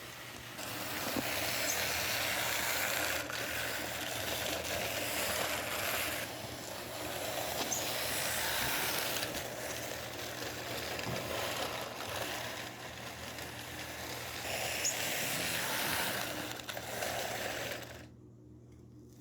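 Vintage AHM HO scale model train running on its track, the motor whirring and the wheels rattling over the rails, swelling and fading every few seconds as it circles the loop. The sound drops away sharply near the end.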